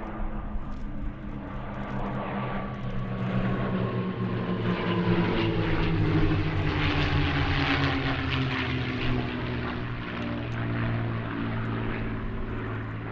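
Piston-engined warbird flying past under power, its engine note falling slowly in pitch as it goes by. It is loudest about halfway through.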